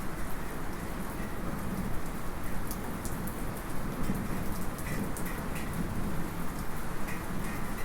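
Light rain falling steadily, with a low rumble of distant thunder underneath. Scattered drops tick sharply, and a small metallic drip pings a few times about two thirds of the way in.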